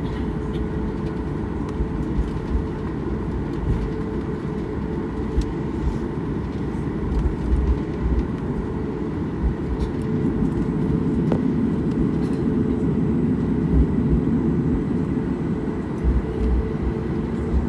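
Airliner cabin noise: steady jet engine drone with a low rumble and a few steady whining tones, growing louder about ten seconds in.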